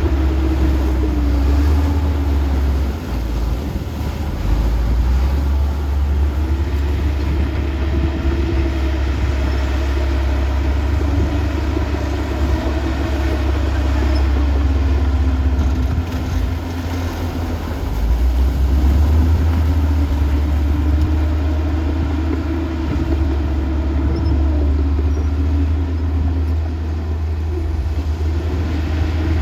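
Heavy diesel engine of an earthmoving machine running with a deep rumble, its pitch rising and falling in slow waves as it is throttled up and down.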